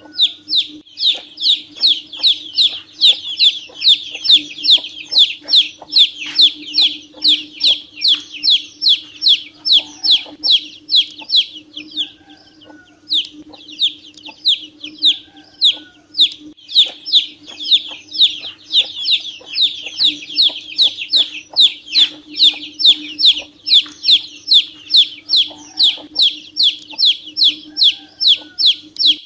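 Ducklings peeping in a rapid, continuous run of short high calls, each falling in pitch, about three a second, with a brief pause about twelve seconds in. A steady low hum runs underneath.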